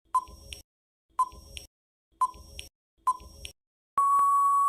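Countdown timer sound effect: four ticks about a second apart, then a steady electronic beep starting about four seconds in that signals time is up.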